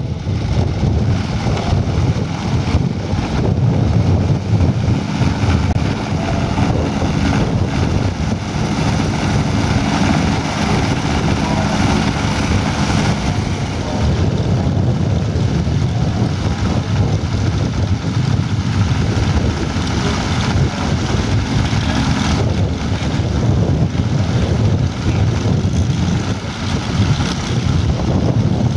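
Engines of large-scale radio-controlled model warplanes running steadily in flight.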